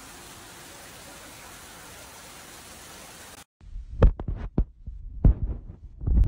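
A steady hiss of noise cuts off abruptly a little over three seconds in. It gives way to a series of heavy, low thumps and knocks, irregularly spaced, the loudest about four, five and six seconds in.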